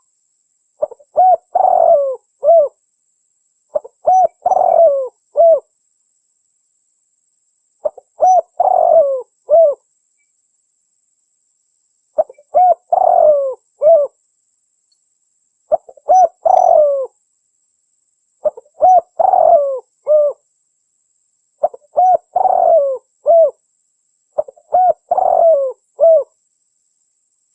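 Spotted dove (tekukur) cooing: the same phrase of several short, low cooing notes repeats about every three seconds, with dead silence between phrases. It is a recorded lure call, played to draw wild spotted doves in.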